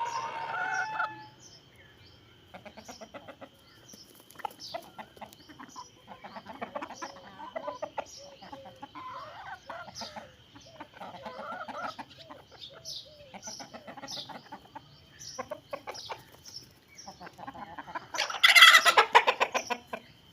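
Chickens clucking in short scattered calls, with small high chirps throughout. A rooster's crow trails off about a second in, and a loud outburst comes near the end.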